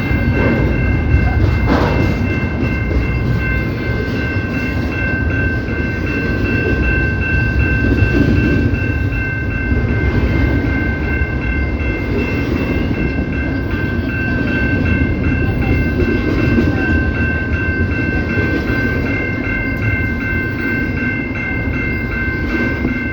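CPKC train rolling past with a steady heavy rumble and wheel clatter, over a steady high-pitched chord of several tones held throughout.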